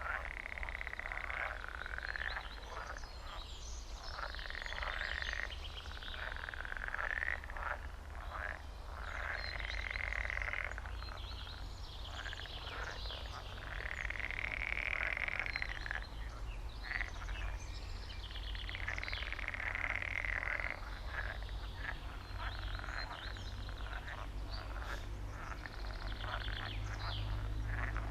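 A chorus of frogs croaking: repeated pulsed trills, each a second or two long, following one another and overlapping, with faint bird chirps among them.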